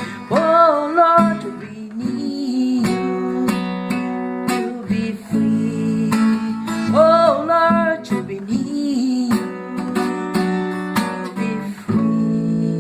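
Acoustic guitar strumming chords as a song's outro, with two short wordless vocal phrases, one at the start and one about seven seconds in.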